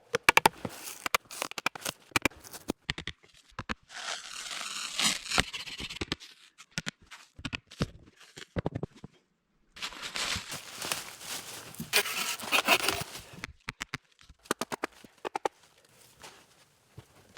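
Bushcraft work on wood and bark: basswood bark tearing and rasping in two longer stretches, among many sharp knocks and snaps of wood.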